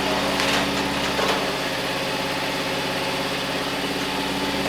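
An engine idling steadily with an even low hum, with a couple of faint knocks near the start.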